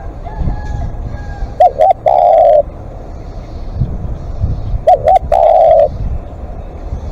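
Spotted dove cooing: a phrase of two short notes then one longer note, given twice about three seconds apart. A low rumble runs underneath.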